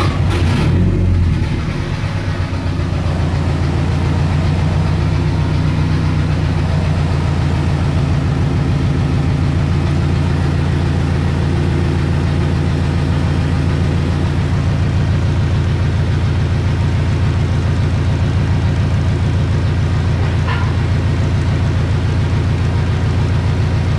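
Nissan 240SX's turbocharged KA24DET inline-four just after it fires up: a louder, uneven first second or two, then a steady idle. It has started quickly after a knock sensor replacement and a new fuel filter.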